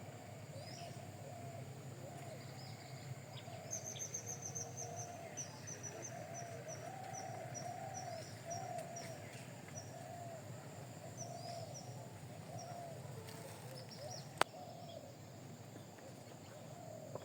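Small bird chirping: a run of short, high chirps, about three a second for several seconds, over lower wavering calls, with one sharp click near the end.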